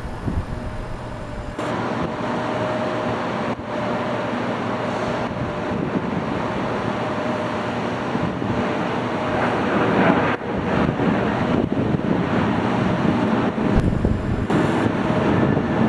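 Boeing 737-900ER jet airliner taking off at a distance: a steady rushing roar with a faint whine through the middle.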